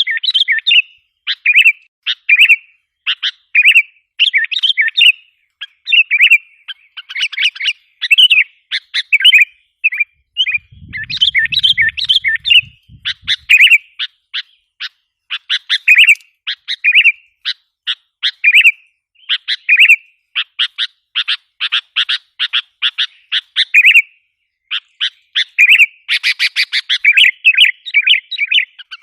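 Sooty-headed bulbul (kutilang) calling without a break, a stream of short bubbly whistled phrases. Fast runs of quick repeated chattering notes come about two-thirds of the way through and again near the end.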